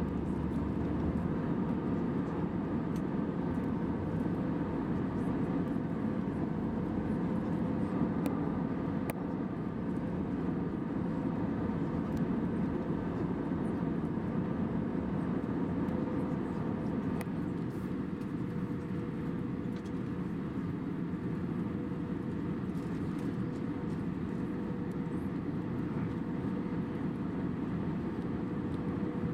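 Steady jet airliner cabin noise in cruise inside an Airbus A320: the engines and rushing airflow make a constant low rumble, with a faint steady hum running through it.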